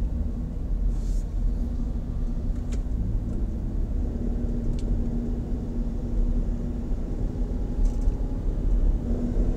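A Nissan X-Trail's 2.5-litre four-cylinder engine running at low revs under light load, heard from inside the cabin as a steady low drone over road rumble. The revs creep up slightly in the last few seconds.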